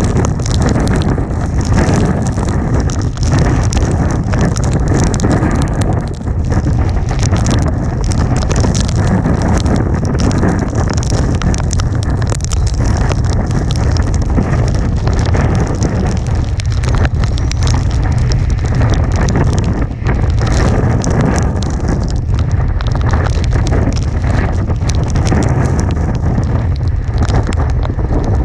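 Hurricane Irma's wind buffeting a GoPro's microphone: a loud, steady low rumble with a rushing hiss, likely mixed with driving rain.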